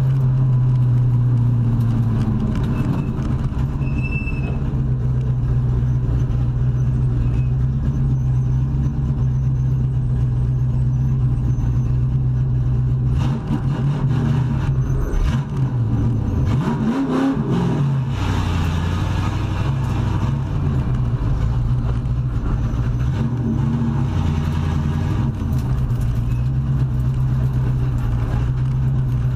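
Race truck engine running at steady revs, with the revs dropping and picking back up about halfway through.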